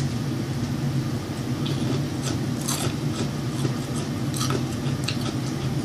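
Close-miked chewing of KFC food, with a few scattered crunches, over a steady low hum.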